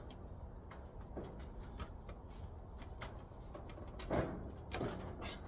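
Scattered light clicks and knocks from handling and fitting a heat pump's roof cover, with two louder knocks about four and five seconds in, over a low steady rumble.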